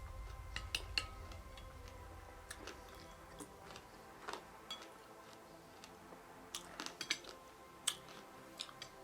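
Mukbang-style eating sounds: faint chewing of a mouthful of fresh fruit (berries and pomegranate seeds in coconut water), with scattered sharp clicks and taps, a few of them grouped near the end.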